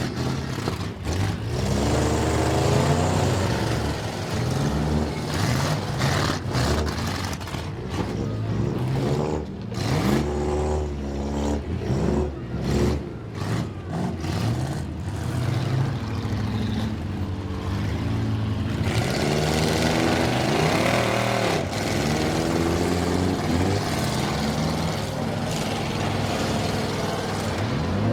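Demolition derby cars' engines running and revving, several at once, their pitch rising and falling throughout, with many sharp knocks in the middle stretch.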